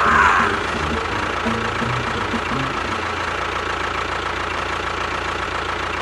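An engine running steadily, with faint music underneath.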